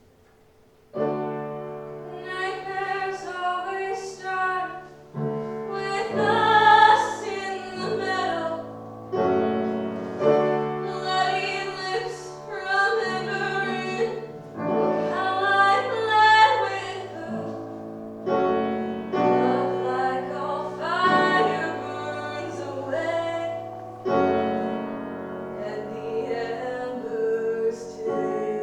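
A slow song sung with piano accompaniment, starting about a second in after a short quiet.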